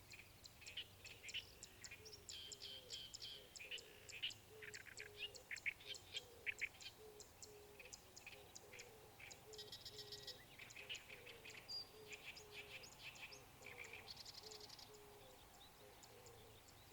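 Several birds chirping and singing faintly, many short calls crowding together, over a lower call that repeats about twice a second.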